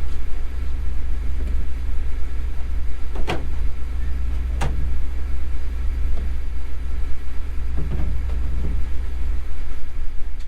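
Car running with a steady low rumble, and two sharp knocks about three and four and a half seconds in.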